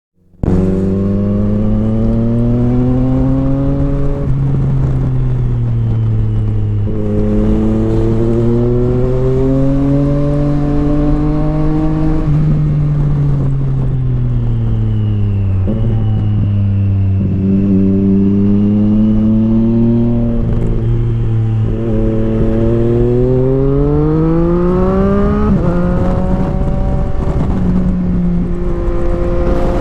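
Motorcycle engine under way, its pitch climbing and falling with the throttle and dropping suddenly a few times as gears change.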